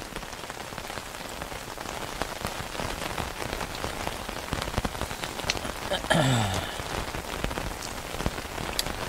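Steady rain falling on a tent, with many separate drops ticking on the fabric. About six seconds in there is one short, low sound that slides down in pitch.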